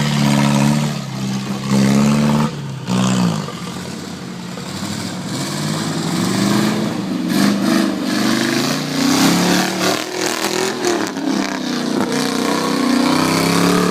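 Off-road vehicle engine labouring up a hill climb. It holds a steady note at first, drops sharply in pitch about three seconds in, then revs up and down repeatedly as the throttle works.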